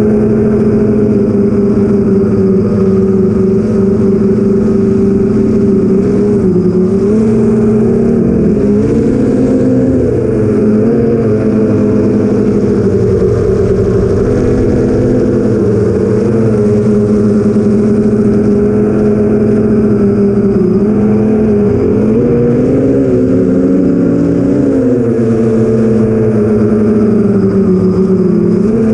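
Motors and 8-inch propellers of an FPV quadcopter (BrotherHobby 2812 1115kv motors, Master Airscrew 8045 props) running in flight: a steady droning whine whose pitch dips and rises several times in the middle as the throttle changes, then settles.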